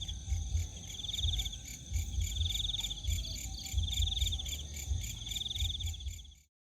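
Insects chirping at night in the forest: a pulsed chirp repeating about every second and a half over a steady high trill, with uneven low rumbling on the microphone. The sound cuts off suddenly near the end.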